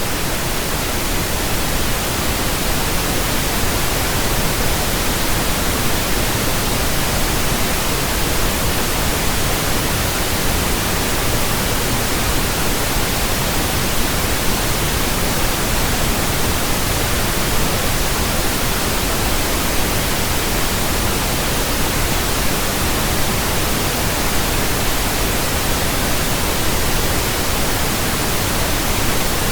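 Steady pink noise from a pink noise generator, a continuous even hiss across the whole range of pitch, played as a burn-in signal for new speakers and headphones.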